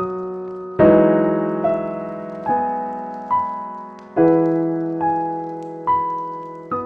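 Slow, gentle solo piano music, a note or chord struck roughly once a second, each one ringing and fading before the next.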